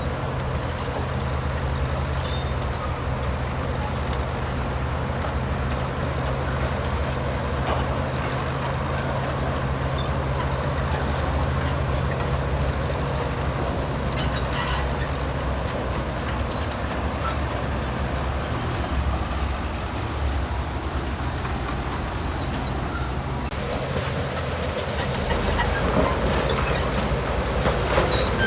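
Heavy construction machine's diesel engine running steadily, with a few short knocks around the middle. It gets louder about three quarters of the way in.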